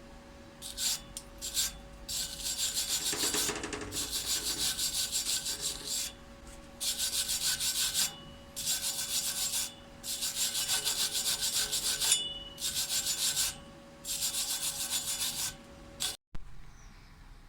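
Quick back-and-forth scraping strokes of a hand tool on steel, cleaning a weld bead. The strokes come in about seven bursts of one to two seconds, with short pauses between them.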